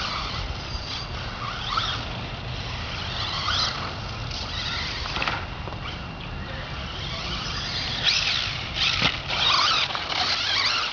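Many birds chirping and calling over one another in short, irregular squeaky calls, busiest near the end, over a steady low rumble.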